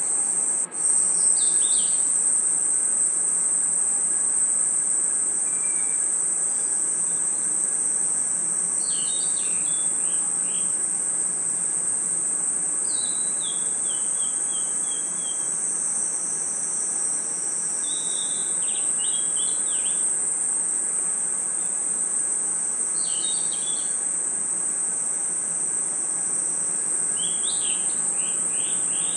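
Crickets trilling in a steady, shrill chorus, with a bird singing short phrases of quick descending chirps every few seconds over it. The sound drops out very briefly about a second in.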